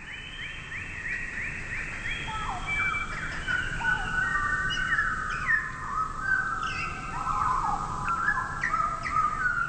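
Several small birds chirping and calling over one another. It opens with a quick run of repeated chirps, then many overlapping whistled calls.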